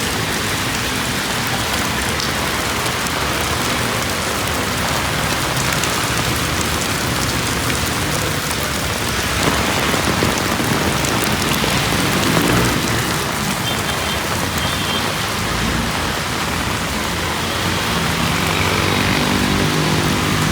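Steady rain falling on a city street, with traffic running alongside; an engine hum grows near the end.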